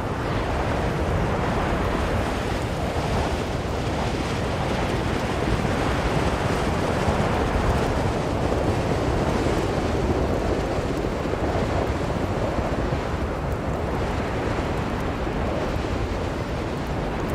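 Blizzard wind blowing steadily, a dense rushing noise that swells slightly about halfway through and eases again.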